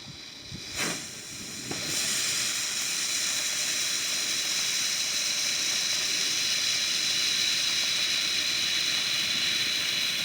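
Ground firework fountain spraying sparks with a steady, loud hiss that starts about two seconds in, after a short rush of sound just under a second in as it lights.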